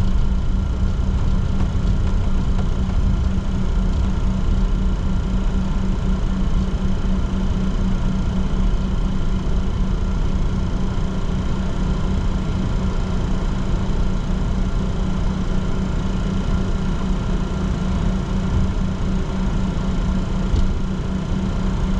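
Steady cockpit noise of a Bombardier Challenger 604 taxiing on its two CF34 turbofans at idle: an unchanging low hum with a few fixed higher whining tones over a broad rush of air.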